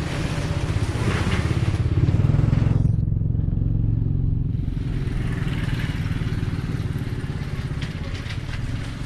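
A motor vehicle's engine running, a steady low rumble that swells about two seconds in and then eases off.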